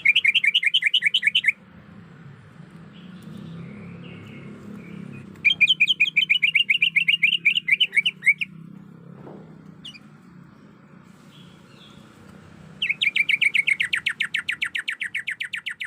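Greater green leafbird (cucak ijo), a female calling for a male, giving three bursts of rapid repeated notes, each lasting one and a half to three seconds. The last burst is faster and drops slightly lower in pitch partway through.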